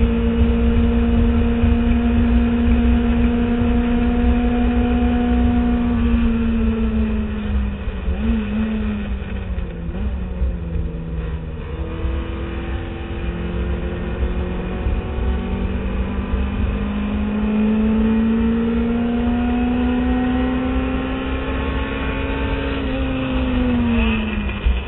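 Classic Mini Cooper race car's A-series four-cylinder engine, heard from inside the car at racing speed. The engine note holds high, falls about seven seconds in, then climbs steadily for about ten seconds through the gear and falls sharply again near the end, over a constant low road and wind rumble.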